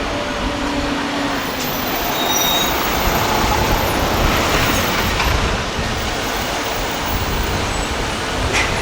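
Motor traffic passing on a city street: a steady rush of vehicle noise that swells a little midway.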